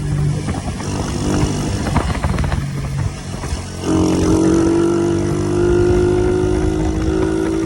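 Motorcycle engine running while riding, with rattling and knocking over the first three seconds. After a brief drop at about three seconds, the engine note steps up higher and louder and holds steady.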